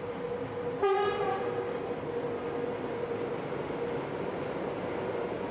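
A train crossing a steel truss railway bridge, running with a steady hum. About a second in, a short horn blast sounds, the loudest thing heard.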